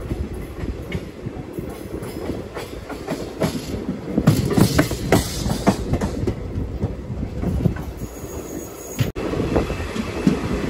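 Old ICF passenger coaches running along the line: a steady rumble with wheels clacking over rail joints, the clacks loudest around the middle. The sound cuts out for an instant about nine seconds in.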